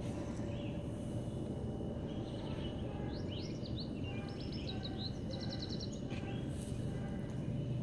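Small birds chirping, with a quick trill of repeated notes a little past the middle, over steady low outdoor background noise.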